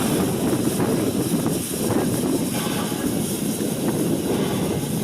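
Rx207 heritage steam train running: a steady, dense low rumble without a clear beat.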